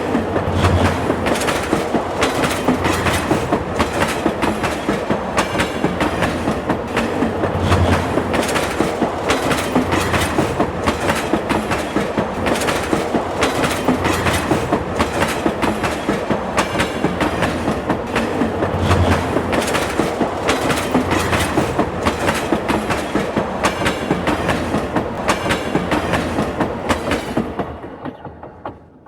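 Train running on the rails, its wheels clattering in a quick, steady run of clicks over a rumble, fading out near the end.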